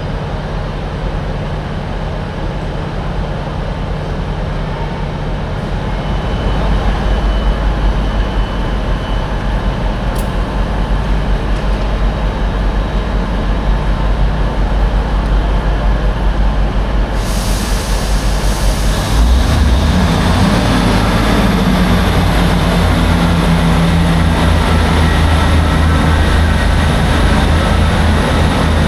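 A train's engine running at a station platform, a steady low hum that grows louder and heavier about two-thirds of the way in, with a rising hiss joining it.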